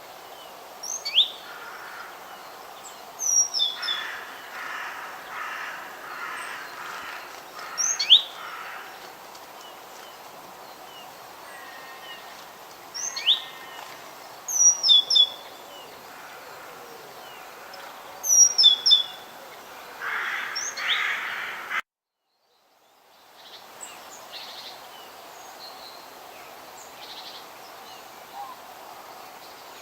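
Songbirds calling in a forest: short, sharp whistled phrases repeating every few seconds, with raspier chatter between them over a steady background hiss. About 22 seconds in the sound cuts out abruptly for about a second, then returns quieter with only faint calls.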